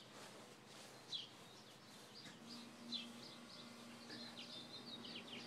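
Faint bird chirps: short high calls about a second in and near three seconds, then a quicker run of them near the end. A faint steady low hum comes in a little before halfway.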